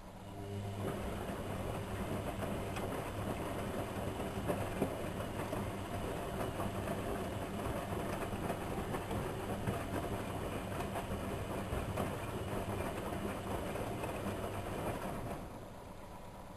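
Whirlpool washing machine running: a steady churning noise over a low hum, with small clicks, starts about half a second in and stops about a second before the end.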